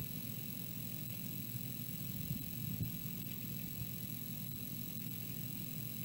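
Wind rumbling steadily on the nest camera's microphone, with a faint steady high whine.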